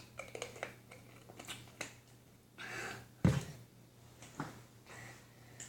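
Handling noises: a scatter of light clicks and taps, a short rustle, and one dull thump a little over three seconds in, over a steady low hum.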